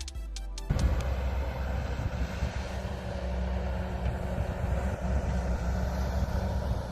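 A hydraulic excavator's diesel engine running steadily, starting after the tail of some electronic music about a second in.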